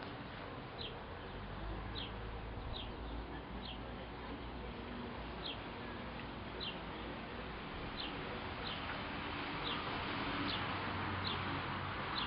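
A small bird chirping, a single short high chirp repeated roughly once a second, over faint outdoor background noise.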